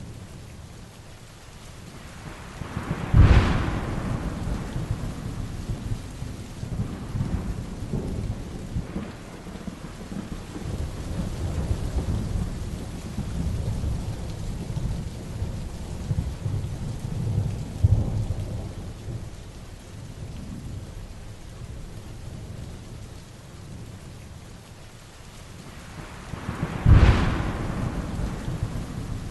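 Heavy rain falling steadily, with two sharp thunderclaps, one about three seconds in and one near the end. Low rolling thunder rumbles in between.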